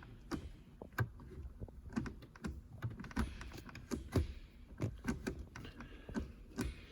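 Irregular light clicks and knocks, several a second at times, from hands working on a newly fitted short shifter and the console parts around it.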